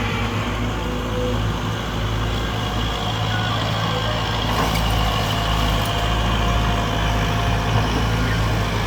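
Tractor engine running steadily, a constant low hum with no change in speed.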